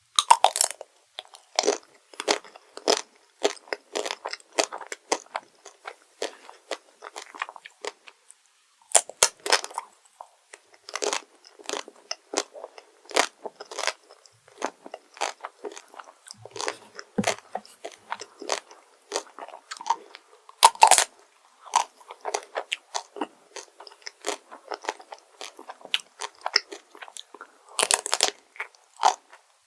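Close-miked crunchy bites and chewing of chocolate desserts: a dense run of sharp, irregular crunches, with a brief pause about eight seconds in and the loudest bites about 21 and 28 seconds in.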